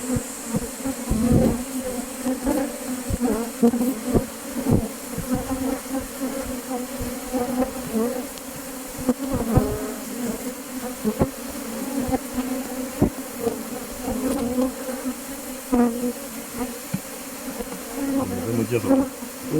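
Many honeybees buzzing around an opened Langstroth hive, a steady, wavering hum, with a few short knocks now and then.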